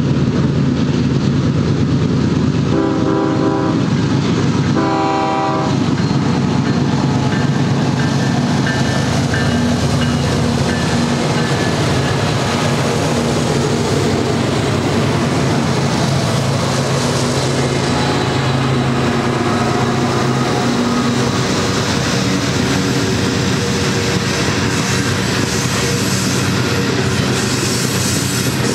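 Union Pacific GE C45ACCTE (ES44AC) diesel locomotives pulling a loaded coal train: the horn sounds two blasts about three and five seconds in, over the steady drone of the engines working as they pass. The engine drone then gives way to the wheel noise of loaded coal hoppers rolling by on the rails.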